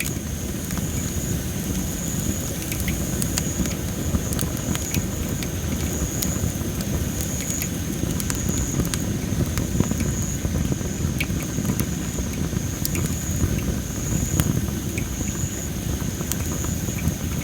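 Dry masaki (Japanese spindle tree) firewood burning in a fire pit, crackling with many sharp, irregular pops over a low, steady rush. A steady, high-pitched pulsing tone runs underneath.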